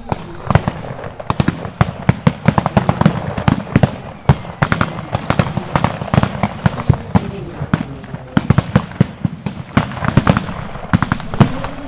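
Blank gunfire in a mock battle: many sharp shots at irregular spacing, several a second, often overlapping.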